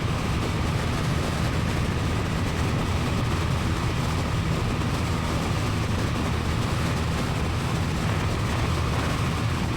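Light single-engine airplane's piston engine and propeller running steadily at full power during the climb-out just after takeoff.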